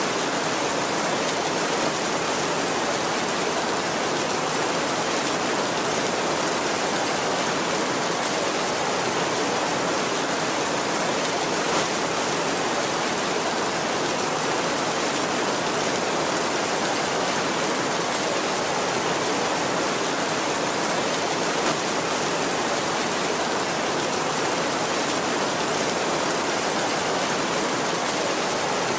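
Heavy rain drumming steadily on a tin roof, a dense, even hiss with no break or change.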